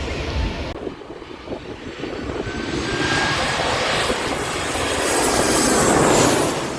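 Airplane on landing approach passing low overhead: its engine roar builds, peaks with a high whine, then begins to fade near the end.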